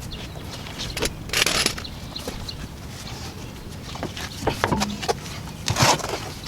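Scattered clanks and knocks of tools and car parts being handled, with two short scraping or rushing noises, one about a second and a half in and one near the end.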